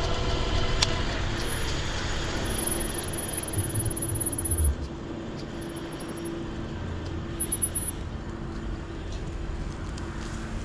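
Riding noise from an electric bike moving on motor power alone: a steady rush of wind and tyre noise with a faint steady hum underneath, easing off about halfway through.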